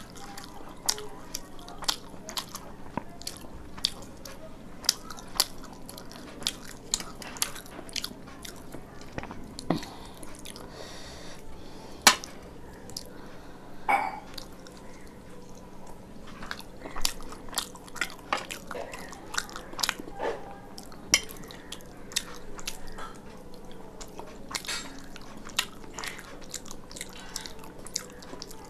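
Close-miked mukbang eating: a person chewing a mouthful of food, with many short, irregular mouth clicks and crunches. The sharpest click comes about twelve seconds in.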